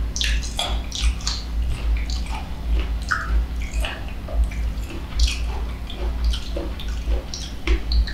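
Close-miked wet chewing and mouth sounds of mango slices dipped in sweet fish sauce: irregular soft squishes, smacks and clicks, with a steady low hum underneath.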